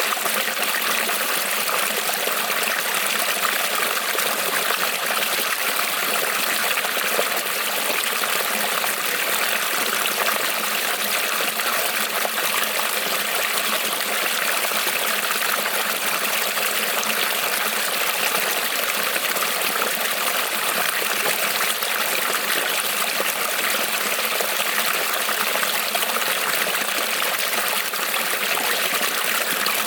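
Creek water rippling and trickling over stones, a steady even rush.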